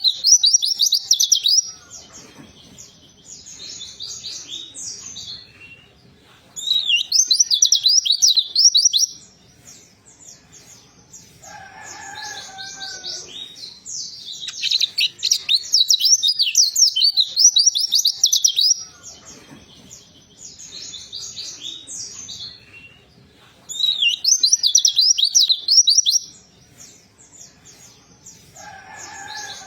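White-eye (pleci) singing in rapid, high twittering bursts a few seconds long, with quieter gaps between them. A lower two-note call sounds twice: about twelve seconds in and again near the end.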